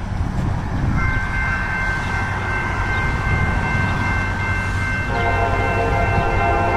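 Norfolk Southern freight train's diesel locomotives rumbling with the horn sounding: thin steady high notes from about a second in, joined about five seconds in by the horn's fuller, lower chord.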